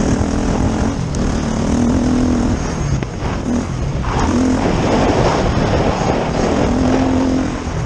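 Dirt bike engine running hard on a motocross track, its note rising and falling with the throttle, over a heavy rush of noise.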